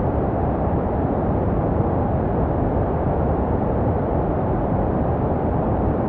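Baby sleep white noise: a steady, deep rushing hiss with most of its weight low and little treble, unbroken and unchanging. It is made to resemble the sound a baby hears in the womb.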